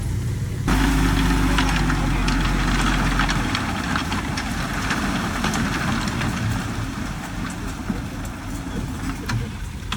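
Diesel engine of heavy earth-moving equipment running under load, with a hissing, rattling scrape of loose earth and stone. The sound sets in abruptly under a second in, is loudest for the next few seconds, then eases.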